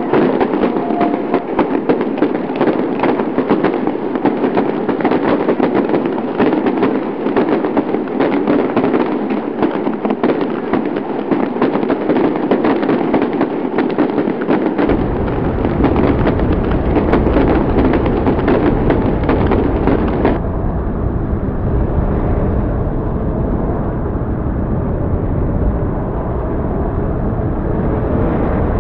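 Heavy rain pouring down, a loud, dense crackling hiss. About halfway through, a deep low rumble joins it and continues underneath.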